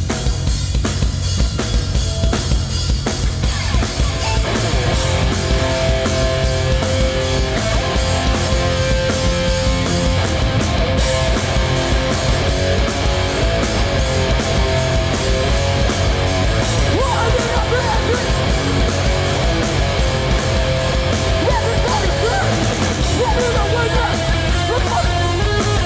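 Hardcore punk band playing live through a PA at full volume: pounding drum kit and bass, with heavy distorted guitars filling in about four seconds in.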